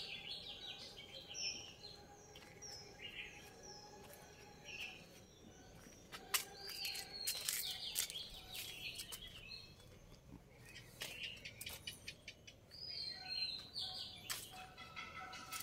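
Small birds chirping, a short high falling note repeated about twice a second, fading out after about five seconds and returning near the end. In the middle a run of sharp clicks and rustles is heard.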